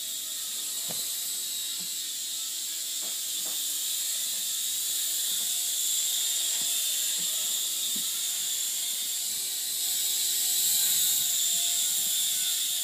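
Air Hogs Havoc toy RC helicopter in flight: its small electric rotor motors whine steadily and high, a little louder about ten seconds in, with a few faint knocks.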